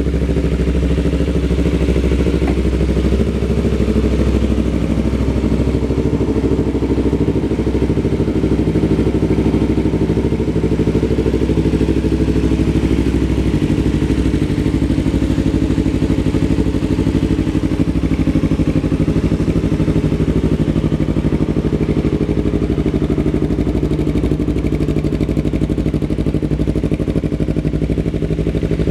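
2015 Yamaha R3's parallel-twin engine idling steadily.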